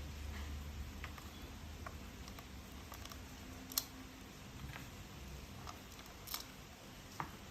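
Scattered light clicks and taps of plastic toy-train pieces being handled and fitted together, with three sharper clicks about four seconds in, past six seconds and near the end.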